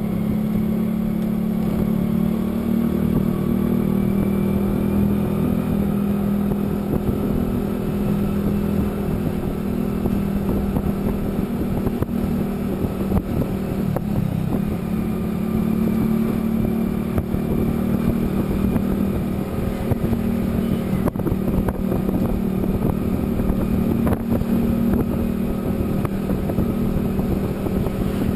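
A vehicle engine running steadily at cruising speed, a constant low hum over road noise, with a slight dip in pitch about midway.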